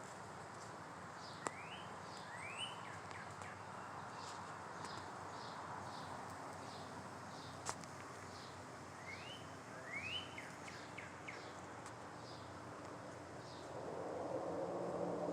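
A songbird sings the same short phrase twice, each a quick rising note followed by a string of short high notes, over quiet outdoor background. Near the end a bumblebee's low wing buzz comes in and grows louder, and two sharp clicks stand out early and midway.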